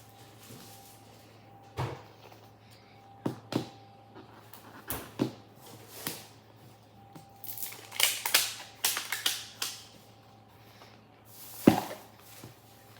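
Small plastic toy packaging being peeled open and handled: scattered clicks and taps, a stretch of crinkly rustling in the middle, and one sharper knock near the end.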